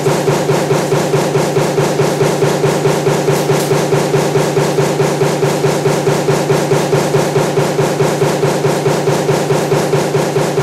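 Power punch press running a die for table fan motor parts. It strokes steadily about two to three times a second over a constant mechanical hum.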